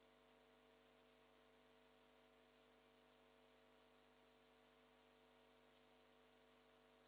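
Near silence: a faint, steady electrical hum with several fixed tones over a low hiss.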